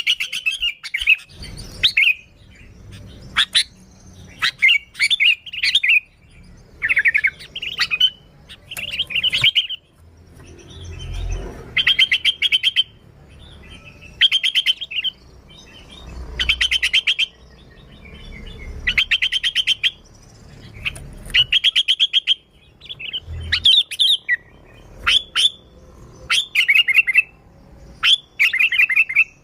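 Sooty-headed bulbul (kutilang) singing loudly: short, rapid chattering phrases repeated every second or two.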